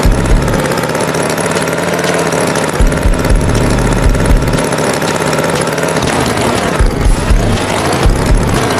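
Tractor engine running steadily, with irregular low thumps.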